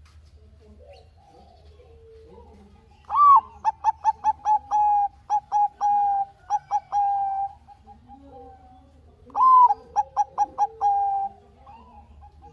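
Bangkok-type zebra dove (perkutut) singing its staccato cooing song in two phrases. Each phrase opens with a loud rising note, then runs into quick short coos and ends on longer held coos. Fainter calls sound underneath and between the phrases.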